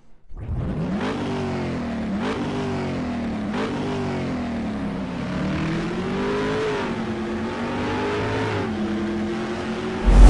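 A car engine revving as it accelerates. Its pitch climbs and drops back sharply twice in the first few seconds, then rises and falls more gently.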